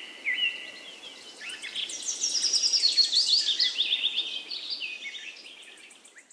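Small birds chirping and twittering in quick, high, descending notes over a steady outdoor hiss, growing busier after a second or so and fading away near the end.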